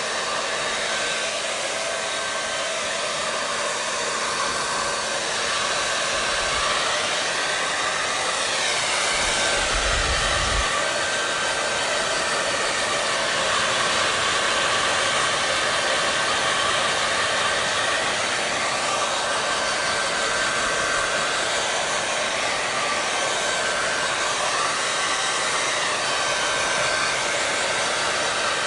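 Hand-held hair dryer running steadily: a constant rush of blown air over a motor hum, its pitch wavering slightly now and then.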